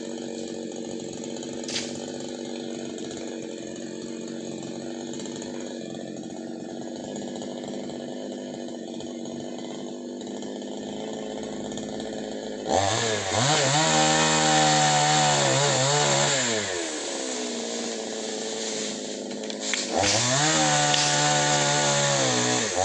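Chainsaw engine running steadily at low throttle, then revved up twice for several seconds each, about halfway through and again near the end, its pitch arching up and back down.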